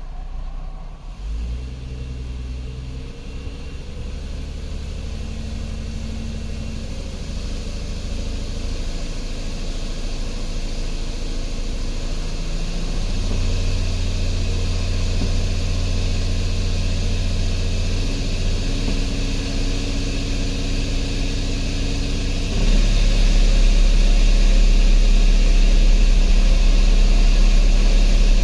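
2010 Chrysler Sebring's 2.7-litre V6 running as the car pulls away in gear after a cam-crank relearn. The engine note steps to a new pitch several times as the car shifts through its gears, and the road noise slowly builds. The overall level jumps about three quarters of the way through.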